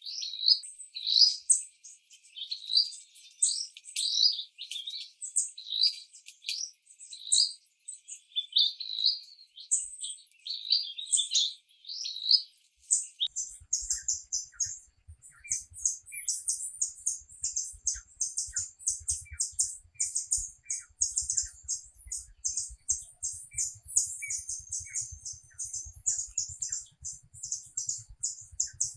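Birds chirping: repeated short, high calls for roughly the first half, then a quicker, higher run of rapid chirps.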